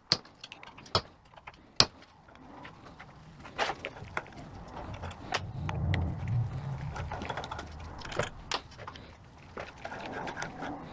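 Small steel valve-body parts from a 42RE automatic transmission (bore plugs, springs, valves) clicking and clinking as they are pulled out and handled, in scattered sharp ticks. A soft low rumble of handling runs through the middle.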